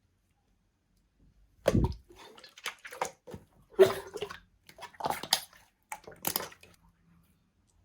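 Clear 'fake water' slime being squished and handled: about six irregular wet squelches, starting about a second and a half in.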